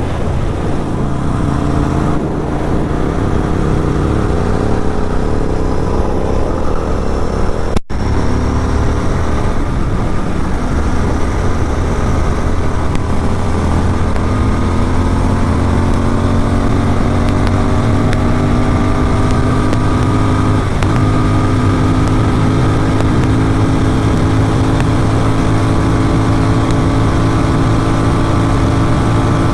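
Motorcycle engine running at highway speed through an aftermarket exhaust. The engine note dips briefly about eight seconds in, then climbs slowly and steadily in pitch through the second half as the bike accelerates.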